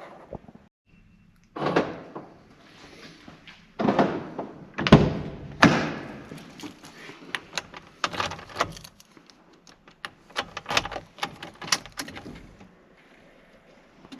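Car door thudding open and shut, several heavy clunks in the first six seconds, followed by a run of small quick clicks and knocks.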